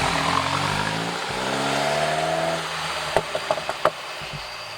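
Mini Countryman S's turbocharged four-cylinder, its muffler deleted and exhaust straight-piped, accelerating with a rising pitch. About three seconds in the pitch falls away, with several sharp cracks as the revs drop.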